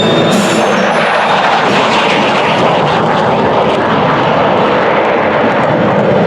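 Loud, steady jet noise from an F-15 Eagle's twin turbofan engines in flight.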